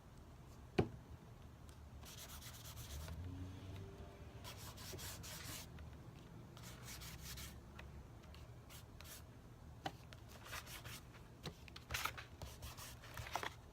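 Short rubbing strokes on paper as paint is worked onto a journal page, in several separate bursts, with one sharp click about a second in.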